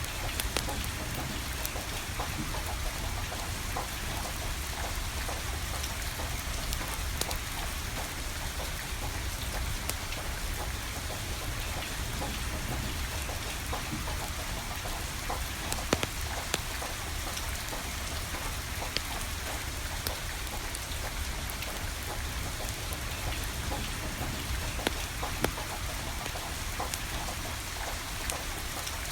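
Steady rain falling, with the scattered sharp crackles and pops of burning firewood; the loudest pop comes about sixteen seconds in.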